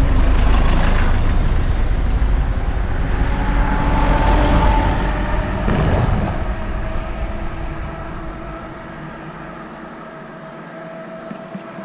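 Wind buffeting a helmet-mounted action-camera microphone while cycling along a road at speed, a loud steady rumble. It eases off near the end as the bike slows.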